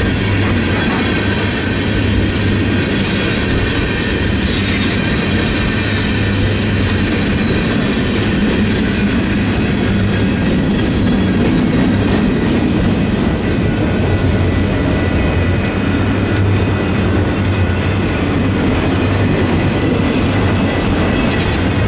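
Diesel locomotive-hauled train running past, a steady rumble with a low engine drone and thin, steady high tones above it.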